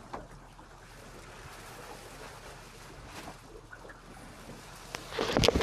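Steady wind and water noise aboard a sailboat under way. Near the end a sudden loud burst of rustling and knocks cuts in.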